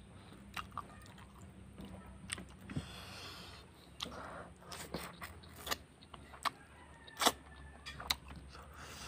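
Close-miked eating sounds from a lapel microphone: wet chewing and lip smacks on catfish and rice, with a scattering of sharp mouth clicks at irregular intervals.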